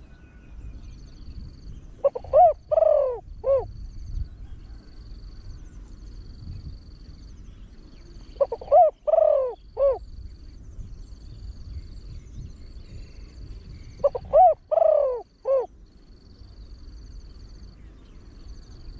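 Deep-voiced spotted dove cooing: three phrases about six seconds apart, each of four notes with a longer third note.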